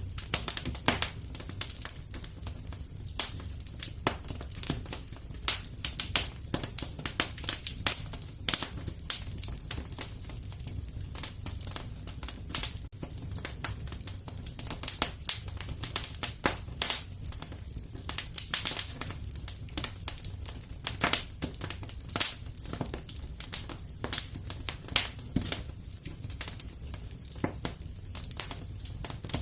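Fireplace crackling: irregular sharp pops and snaps of burning wood over a steady low rumble of the fire.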